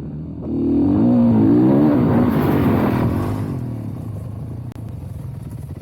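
Dirt bike engine revving hard and climbing in pitch about a second in, then easing off and fading.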